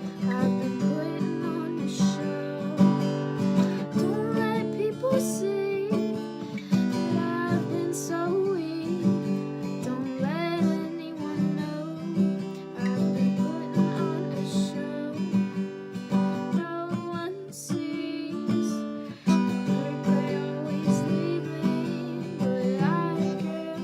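Music of an acoustic guitar strumming chords.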